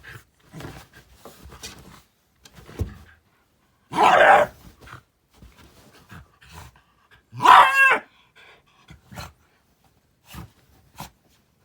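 Shiba Inu grumbling and huffing in short bursts, with two loud outbursts: a harsh bark about four seconds in and a pitched yowl near eight seconds. It is the angry, talking-like vocalising Shibas are known for.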